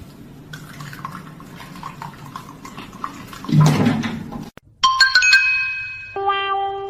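A soft noisy background swells into a short rushing noise, then after a brief cut a bright chiming sound effect rings out, followed by a few falling musical notes.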